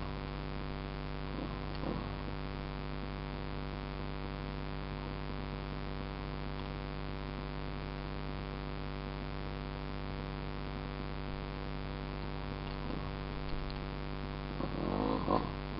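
A steady low electrical-sounding hum made of several fixed tones, with a few short sounds whose pitch bends near the end.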